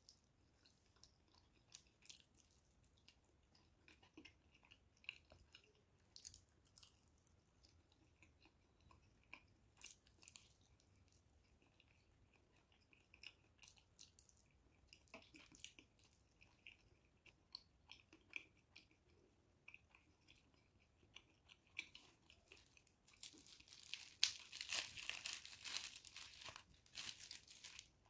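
Close-miked eating of Indian sweets: faint, scattered crunches and chewing clicks. Near the end comes a denser, louder run of crunching that lasts a few seconds.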